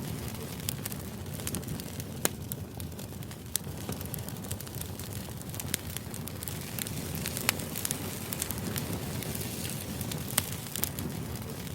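Crackling fire ambience: a steady low rush with irregular sharp pops and crackles scattered throughout.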